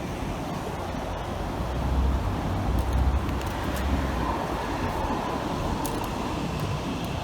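City street traffic noise, steady, with a stronger low rumble about two to four seconds in.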